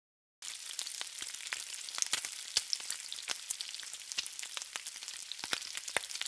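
Food frying on a hot griddle: a steady sizzle thick with sharp crackles and pops, starting suddenly about half a second in.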